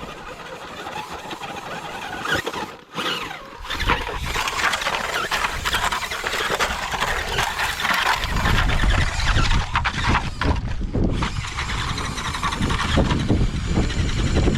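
Rock crawler buggy's tires squealing as they spin and scrub on rock, with the engine revving hard. Heavy low rumble sets in about halfway through, typical of wind buffeting the microphone.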